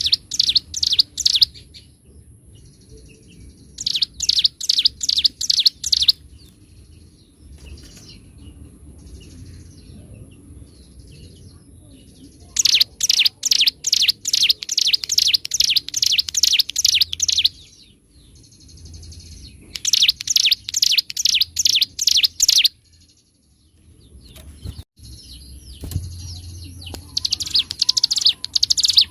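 A ciblek gunung (a prinia) singing in loud, rapid rattling phrases of fast, evenly repeated high notes, several seconds long, with softer twittering between them. This is the fast sustained 'ngebren' song that bird-keepers use as tutor song.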